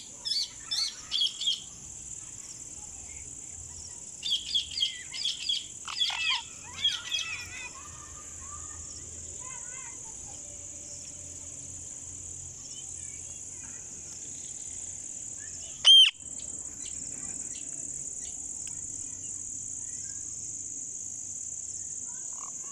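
Indian ringneck parrot calling: a quick run of short, high, shrill calls at the start, a longer run a few seconds later, and one single loud call in the second half. A steady high hiss runs underneath.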